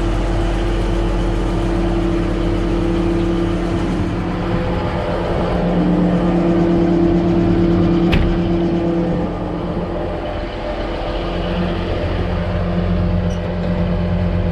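Case IH Steiger 9370's diesel engine running steadily as the tractor drives. Its pitch rises a little about six seconds in and eases back down around nine to ten seconds. There is a single sharp click a little past the middle.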